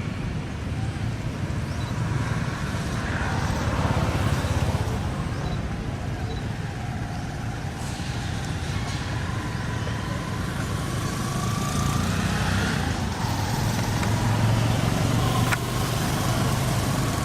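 Steady low rumble of a running motor vehicle engine or passing road traffic.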